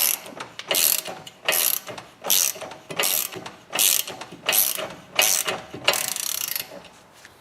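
Hand ratchet wrench clicking in regular back-and-forth strokes, about one every three-quarters of a second, undoing the front drive shaft nut; the strokes stop near the end.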